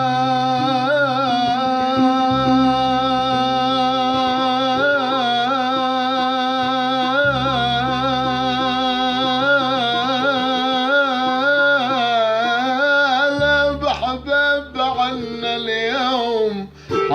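A male voice sings one long, ornamented held note in Middle Eastern folk style, the pitch wavering in trills, over steady sustained low backing notes that shift twice. Near the end the line breaks into quicker runs and dips briefly.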